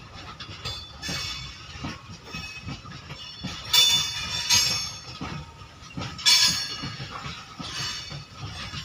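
Loaded freight train's open wagons rolling past, the wheels clattering on the rails, with several bursts of high-pitched wheel squeal, the loudest about four and six seconds in.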